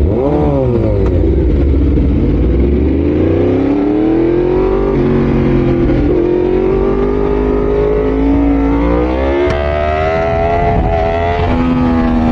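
Yamaha R1's inline-four engine blipped once, then pulled away hard from a standstill. Its revs climb and drop back at each upshift, several times over.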